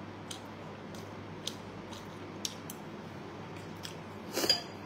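A person chewing a mouthful of rice close to the microphone, with a few faint, sharp mouth clicks and smacks and a louder smack near the end, over a low steady hum.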